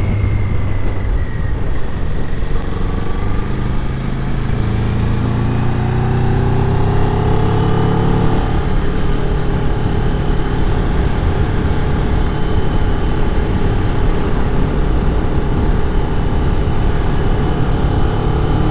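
Kawasaki Ninja 400 SE parallel-twin engine running under way, its pitch climbing over the first several seconds as it accelerates, then holding steady, with wind rush on the microphone.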